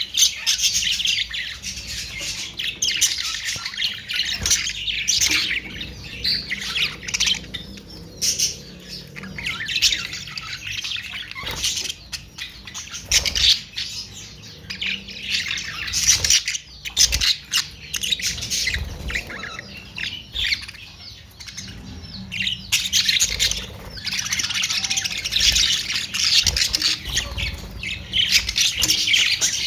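A group of budgerigars chattering and chirping nonstop, with harsh squawks mixed in and many sharp clicks. The chatter is densest at the start and again through the last third.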